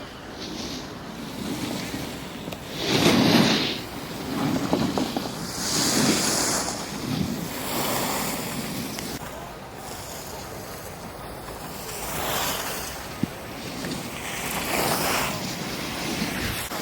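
Wind rushing over the microphone mixed with the hiss of skis or a board sliding and carving on packed snow, swelling and fading several times, the loudest swell about three seconds in.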